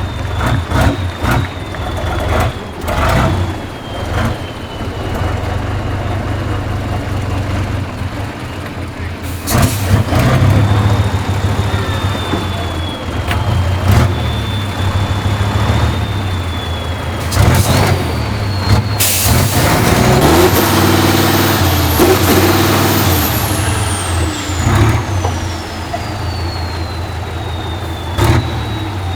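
Heavy diesel truck engine running and revving, with several loud air hisses from the air brakes and a high whine that falls in pitch near the end.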